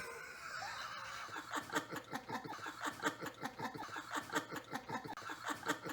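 A man laughing in a long run of quick, breathy pulses, about five a second, starting about a second in.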